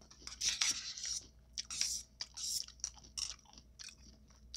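Close-miked chewing of a mouthful of taco, in irregular short bursts.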